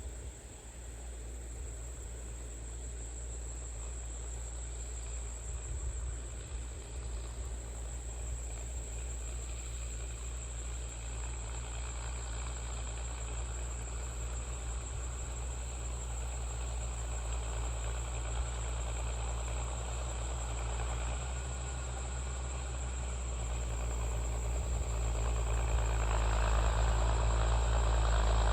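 Allis-Chalmers D17 tractor engine running steadily, growing louder over the last few seconds, with a high steady chirring of insects over it.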